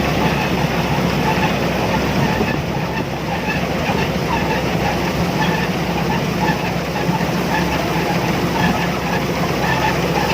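Combine harvester running steadily, with an even low engine hum.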